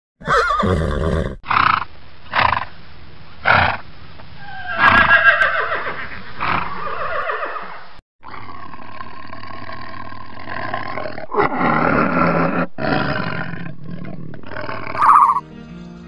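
Horses whinnying and giving several short calls, then, after a brief break about halfway, a tiger roaring. Music comes in near the end.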